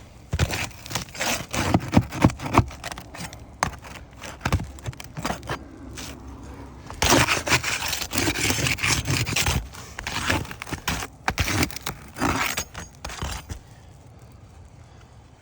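Brittle asphalt roof shingles being pried and worked loose around their nails: repeated scraping, crackling and sharp cracks, densest from about seven to nine and a half seconds in. The sound is the brittle shingle tearing, a sign that it is too brittle to be removed without damage.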